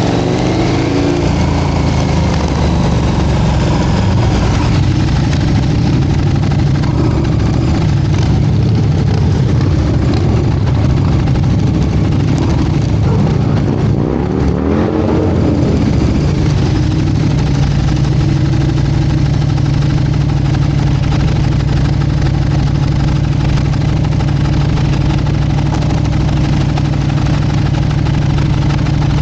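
Motorcycle engines running at idle, with the engine pitch swelling and falling briefly about a second in and again around the middle, as from a rev or a bike riding past.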